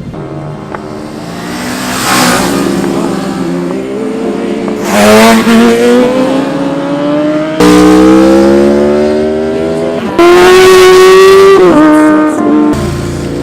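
Motorcycle engine accelerating hard, its pitch climbing steadily and then dropping sharply at each gear change, several times over.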